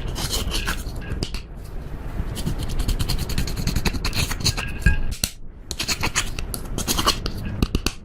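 Slime being squished and stretched by hand, with dense, irregular crackling and popping clicks from the sticky slime, pausing briefly about five seconds in.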